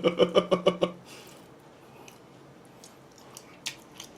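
A man's voice in quick, even pulses on one pitch, like a short laugh, stops about a second in. It gives way to soft chewing, with a few faint wet clicks and smacks of the mouth.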